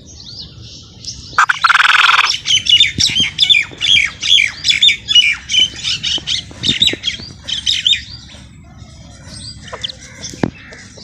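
Birds calling: a harsh squawk about a second in, then several seconds of rapid, overlapping high chattering notes that thin out to scattered calls near the end.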